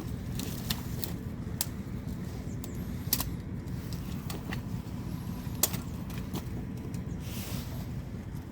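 The 2005 Dodge Dakota's 4.7-litre V8 running steadily with a low rumble. A few sharp clicks and knocks are scattered through it.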